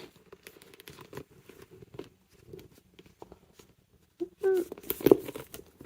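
Light clicks and handling noise of a metal chain strap's clip being fastened onto a handbag, with a sharper click about five seconds in.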